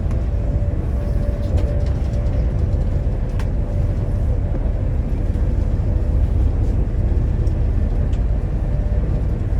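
Passenger train running along the line, heard from inside the carriage: a steady low rumble with a faint hum over it and a few light clicks.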